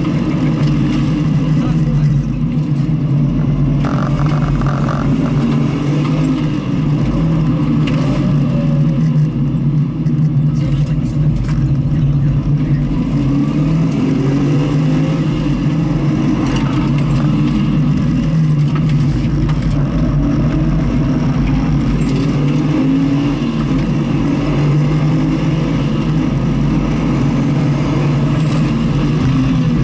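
Car engine running steadily at circuit speed on a track lap.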